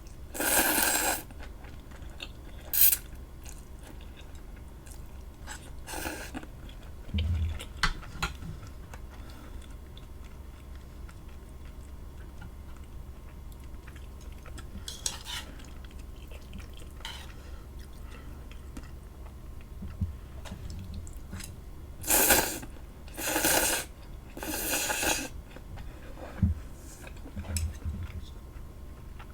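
Cutlery clinking and scraping against dishes while eating, in scattered bursts with a cluster of three about two-thirds of the way through, over a low steady hum.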